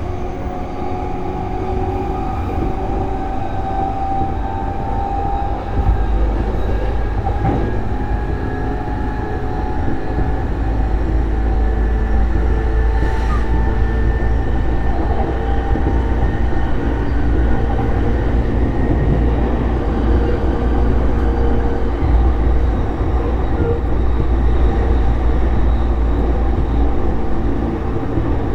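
E233 series electric train running, heard from inside the car: a continuous rumble of wheels on rail with the steady hum of the electric traction equipment. The low rumble grows heavier about six seconds in and stays that way.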